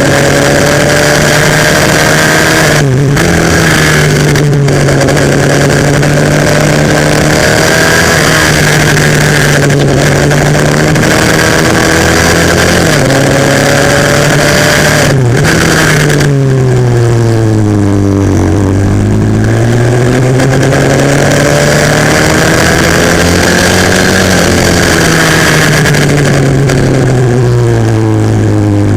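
A 140cc single-cylinder four-stroke pit bike engine at race revs. The pitch climbs and falls with throttle, with brief breaks on each gear change. The revs drop low into slow corners about halfway through and again near the end, then pull back up.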